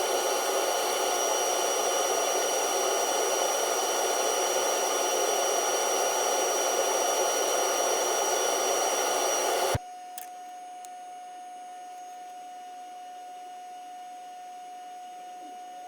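Steady whirring of a running shop machine or power tool with a whine in it, cut off abruptly about ten seconds in; a quieter, single steady hum tone continues after.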